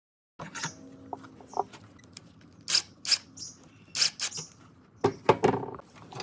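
Hand work with tools on metal parts: a run of sharp clicks, taps and scrapes, irregular, with the loudest knocks about three, four and five seconds in.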